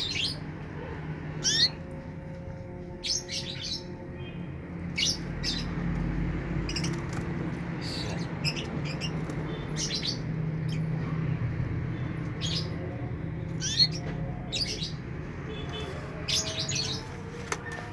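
Canary giving short chirps again and again at irregular intervals, over a low steady background hum.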